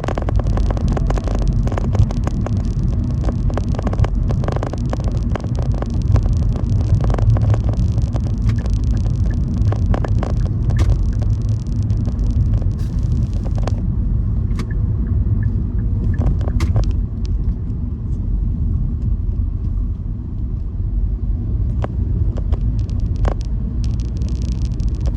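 Steady low road and engine rumble inside a moving car's cabin. The higher tyre and wind hiss thins out about halfway through, as the car slows, and there are a few small clicks and knocks.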